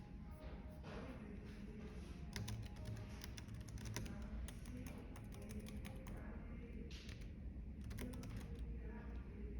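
Typing on a computer keyboard in quick bursts of clicks with short pauses between them, over a steady cafe background and soft music.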